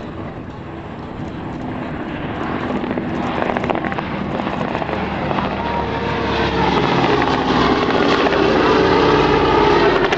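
Piston-engined World War II warbird flying by, its propeller drone growing steadily louder as it approaches, loudest near the end.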